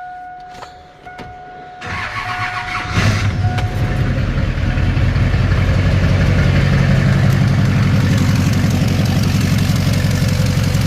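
Diesel pickup truck engine cranked over and catching about three seconds in, then running loud and steady with a rapid low pulse. The owner believes this motor has been damaged. A steady electronic tone sounds during the first seconds.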